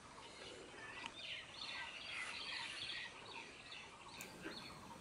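Wild birds chirping faintly over quiet open-air ambience, with a run of short high chirps from about a second in to about three seconds, and a few more near the end.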